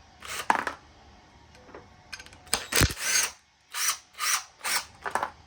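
A 7/16 socket tool unscrewing brass fittings from a steel furnace burner: a series of short mechanical bursts with a knock about three seconds in.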